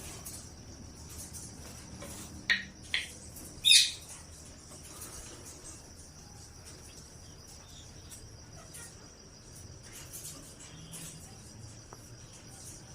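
Ring-necked parrot calls: two short, sharp calls about two and a half seconds in, then a louder, longer call that sweeps up and back down. A steady high-pitched insect-like drone runs underneath.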